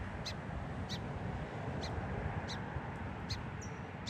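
Song sparrow giving a sharp, high call note over and over, about six times, roughly once a second: the calling of a sparrow agitated by a person standing close to it. A steady low rumble lies underneath.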